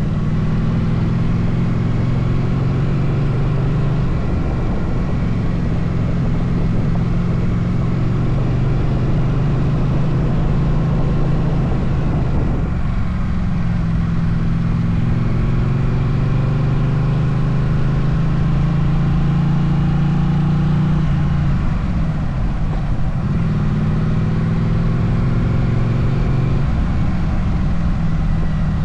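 Motorcycle engine running steadily while riding, its note rising slowly then dropping and picking up again about halfway through and a few times near the end, as with throttle changes and gear shifts.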